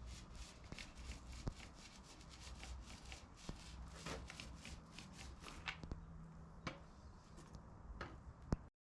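Hand paint prep on a metal machine panel: repeated short, scratchy strokes, several a second, that cut off suddenly near the end.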